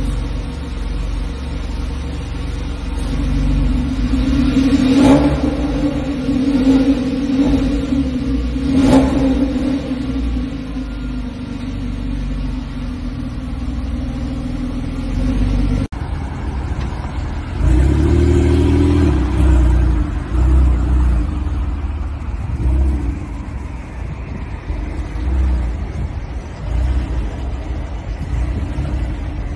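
Porsche 911 (997) Carrera S 3.8-litre flat-six idling steadily just after a start, with two brief louder spikes about five and nine seconds in. After a cut, the engine's note rises and falls briefly, then runs on quieter.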